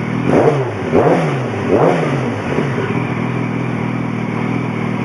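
Yamaha FZ1's 998 cc inline-four through a titanium aftermarket exhaust, idling, then blipped three times in quick succession in the first two seconds, each rev rising and dropping straight back to a steady idle.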